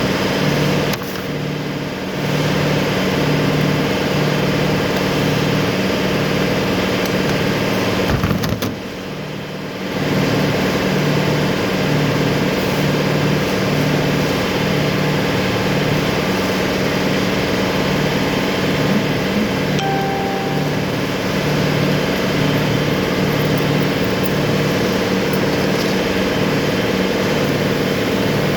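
An engine or motor running steadily, with a slow, regular throb in its low hum. It drops briefly in level about eight seconds in.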